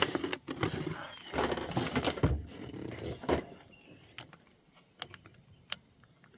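Handling noise from working a strip of paper through the meshed gears of an RC truck's drivetrain to set gear backlash: scraping and rustling for about three seconds, then scattered light clicks.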